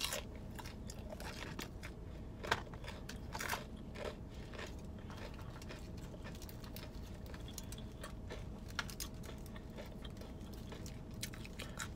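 Close-up chewing of crunchy battered fried food, with crisp crunching clicks that come thickest in the first few seconds and thin out later, over a faint steady hum.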